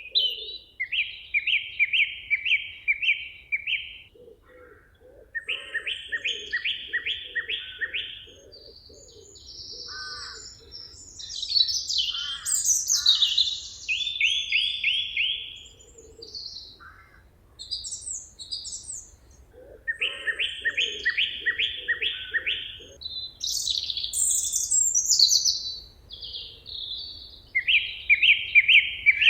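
Songbirds singing in a forest. One bird repeats a fast series of evenly spaced notes lasting two to three seconds, several times, while other birds add higher, varied chirps and whistles between its phrases.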